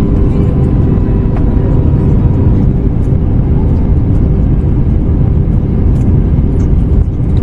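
Steady cabin noise of an Airbus A321neo heard from a window seat: a loud, even rumble from the airflow and the Pratt & Whitney PW1100G geared turbofan engines, with a constant hum.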